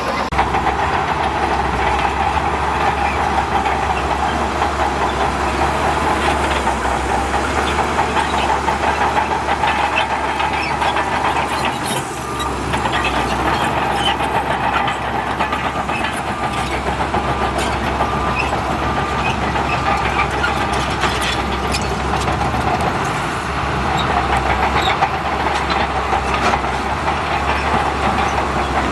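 Heavy diesel earthmoving machinery running steadily under load, with frequent short clanks and clicks over the engine.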